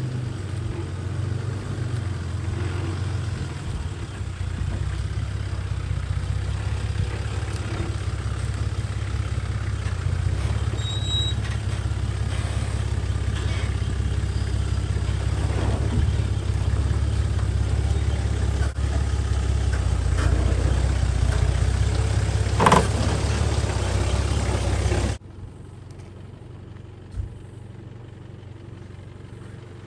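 Four-wheel-drive engine running at low revs on a rough off-road track, with one sharp knock about three-quarters of the way through. Near the end the sound drops suddenly to a much quieter engine rumble.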